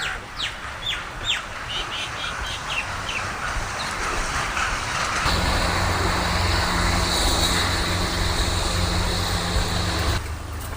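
Small birds chirping with quick, short calls; about halfway through, a steady low motor hum comes in, then stops abruptly near the end.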